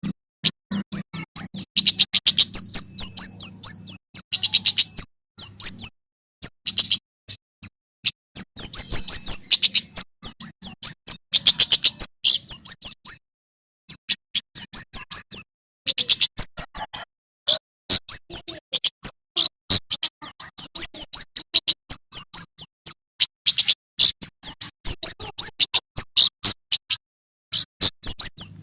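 Male prenjak keres (kemade) singing in long rapid runs of sharp, high chirps and clicking notes, broken by short pauses, the fast 'tembakan' song used as training song for songbirds. A low hum sits under the first few seconds.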